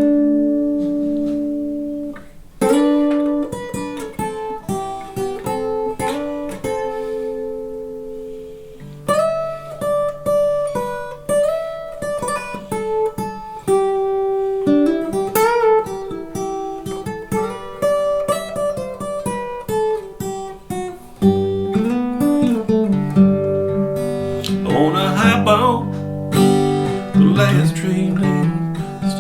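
Acoustic guitar playing an instrumental song intro, picking single notes and chords. A fuller low part comes in past the middle, with a few wavering, bending notes near the end.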